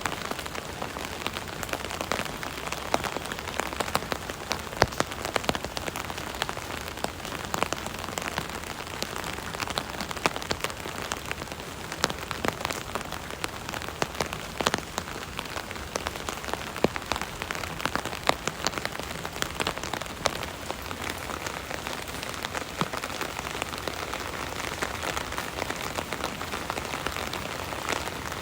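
Rain falling on an umbrella canopy: a steady patter of drops, with individual louder drops ticking out of the even hiss.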